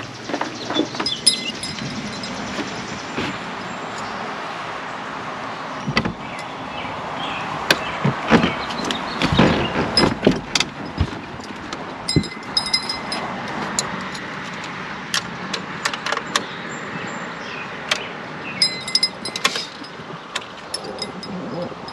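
Scattered metallic clinks, knocks and jangles of tools and parts being handled on a boat, over a steady background hiss.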